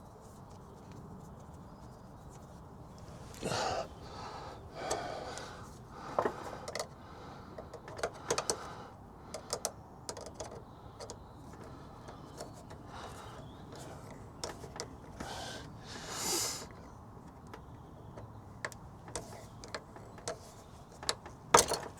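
Jubilee hose clips being tightened by hand onto a diesel heater fuel line: scattered small metallic clicks, taps and scrapes of the tool and clips, with a few short rasping noises along the way.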